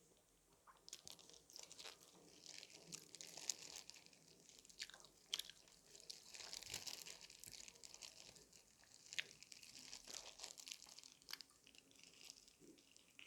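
Close-up mouth sounds of someone biting into and chewing crispy fried chicken: quiet, irregular crunching and crackling, with a few louder crunches about three and five seconds in.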